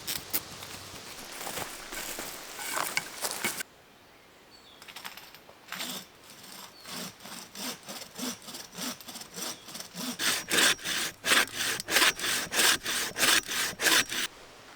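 Hand saw cutting through wood in back-and-forth strokes, about two a second and louder over the last few seconds. Before it, irregular rustling that stops abruptly about three and a half seconds in.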